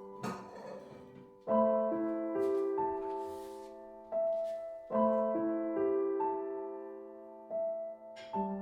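Soft, slow solo piano background music: gentle chords struck every second or so and left to fade.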